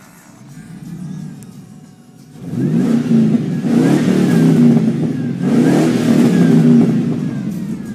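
A 5.3 L Vortec V8 with a Flowmaster exhaust and 3-inch pipe idles, then is revved twice, about two and a half seconds in and again about five and a half seconds in, rising in pitch each time.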